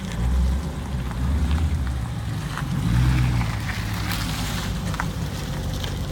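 V8 muscle car engines rumbling, swelling about half a second in and again around three seconds, over steady background noise.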